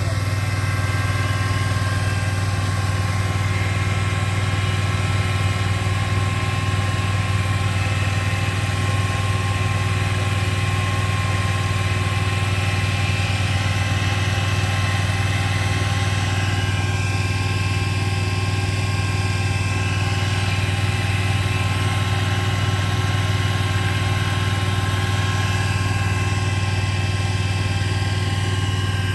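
A vehicle engine idling with a steady, even hum that does not change.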